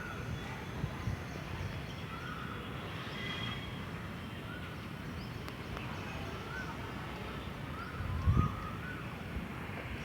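Steady outdoor background hiss with short bird calls now and then, and a brief low rumble about eight seconds in.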